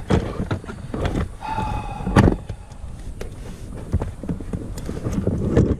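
Handling noises at a car's fuse box: scattered clicks and rustles as a circuit test light and fuse tap are handled, with one sharp click a little after two seconds and a short tone just before it.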